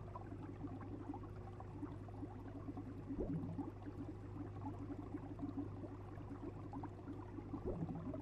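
Faint bubbling water over a steady low hum, with short rising bloops about three seconds in and again near the end.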